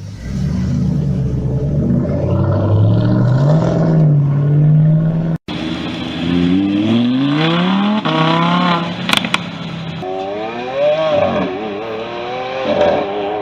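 Car engine running with a steady, slightly wavering note for about five seconds, then after a sudden cut an engine revving up in rising sweeps, dropping back, and revving again.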